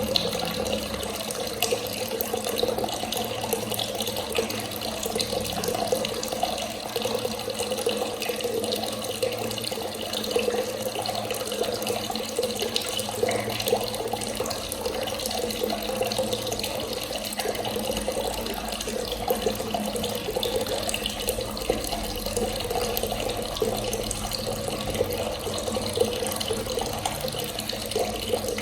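Clear water running steadily from a tap and splashing, an even, unbroken flow.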